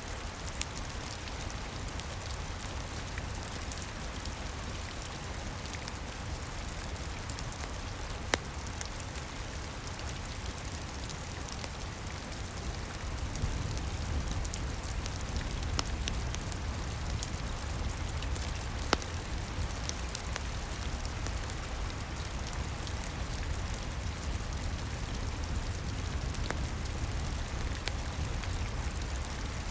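Steady rain pattering, over a low rumble, with a few sharp pops of a crackling wood fire, the loudest two about a third of the way in and again about two-thirds in.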